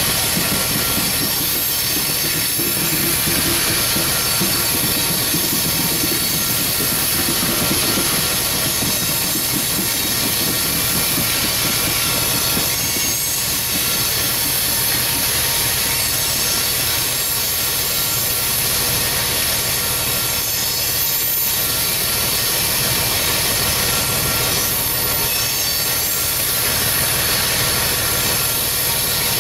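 Loaded coal train cars rolling past: a steady rolling rush of steel wheels on rail, with several steady high thin tones running over it.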